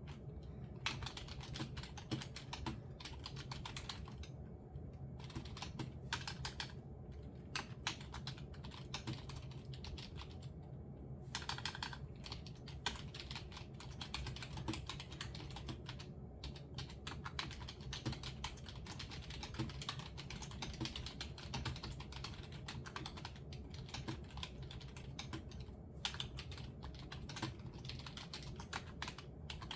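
Quiet typing on a computer keyboard: runs of rapid key clicks broken by short pauses, over a faint steady low hum.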